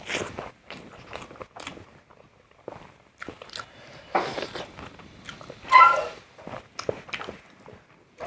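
Close-up eating sounds: chewing with sharp crunches and wet mouth clicks, irregularly spaced. A brief voiced sound from the eater comes about six seconds in and is the loudest moment.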